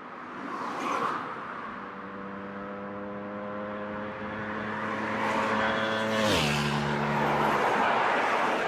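A racing motorcycle flying past at speed, its pitch holding steady and then dropping sharply about six seconds in as it passes.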